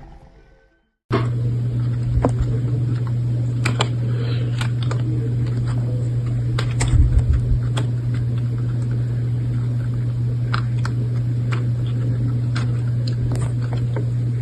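A steady low hum with rushing noise over it and scattered clicks and knocks. It cuts in abruptly about a second in, after a moment of silence, and runs at an even level.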